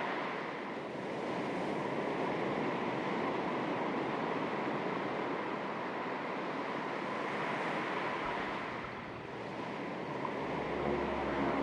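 Small waves lapping on the shore of a calm sea: a steady wash that swells and eases, dipping twice. A low rumble comes in near the end.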